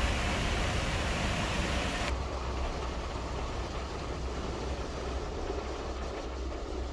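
Typhoon wind rushing, with a heavy low rumble. The high hiss drops off abruptly about two seconds in, leaving a duller rush.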